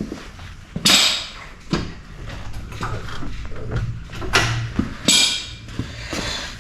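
Metal clanks and knocks from motorcycle rear-wheel work, about four sharp knocks spread through, with smaller clicks between.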